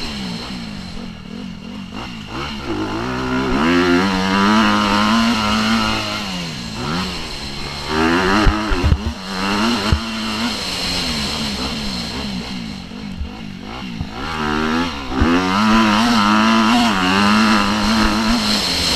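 Motocross bike engine racing, revving up and dropping again and again as the throttle opens and closes. There are a few sharp knocks about halfway through.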